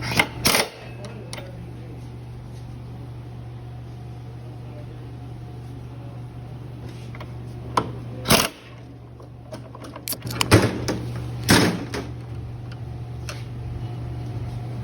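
Scattered sharp knocks and clanks of tools and metal parts being handled while a snowmobile chain case is taken apart, over a steady low hum. The loudest knocks come about two-thirds of the way through.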